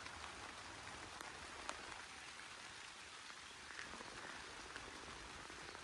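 Faint steady rain: a soft, even hiss with a few single drops ticking out louder.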